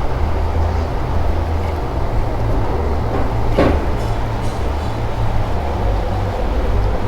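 A steady low rumble, with one short knock about three and a half seconds in.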